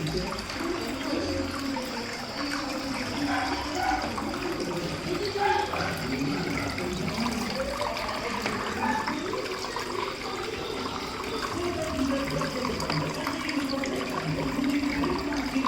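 Water splashing and trickling steadily down a small cement waterfall fountain.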